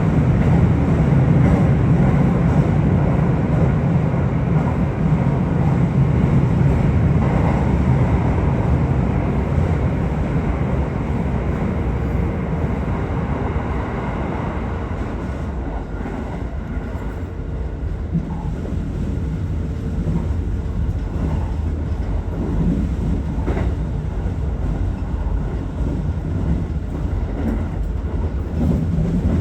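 Aichi Loop Railway 2000 series electric train running between stations: a steady rumble of wheels on rail, easing somewhat in the middle and building again near the end.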